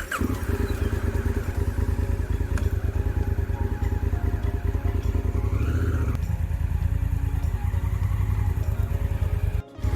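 Honda Africa Twin's parallel-twin engine running steadily at a low, even pulse, with a short break near the end.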